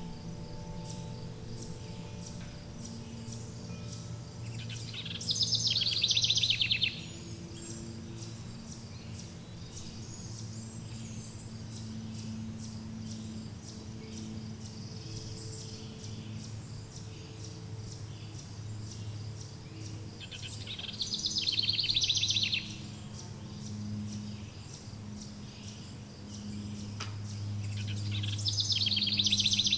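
Songbird singing a loud, rapid trill three times, over faint steady chirping. Low, soft sustained tones sit beneath the birdsong.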